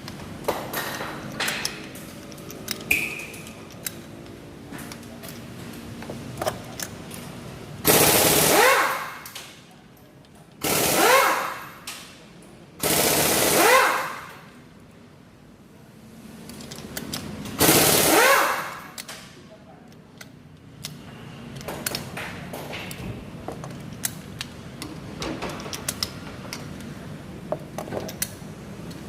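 Compressed-air power tool, such as an air ratchet or impact wrench, run in four short bursts that each rise in pitch as it spins up, with light metal tool clatter between them.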